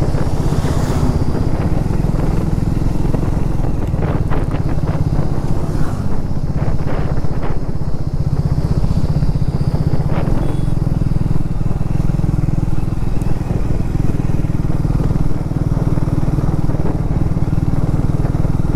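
Triumph Speed 400's single-cylinder engine running steadily while the motorcycle is ridden, a constant low engine sound with no change in pitch.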